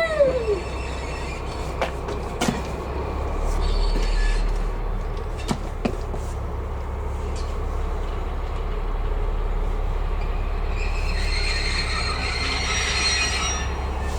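Train hauled by a DB class 218 diesel-hydraulic locomotive, moving with a steady low rumble. A short squeal slides down in pitch right at the start, a few sharp clanks follow, and the wheels squeal on the rails from about eleven seconds in until near the end.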